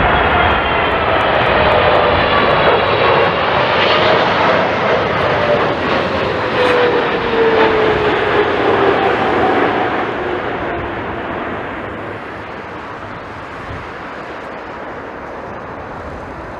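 Jet airliner's engines going past close by: a loud rush with a whine that falls in pitch as it passes, fading away about ten seconds in.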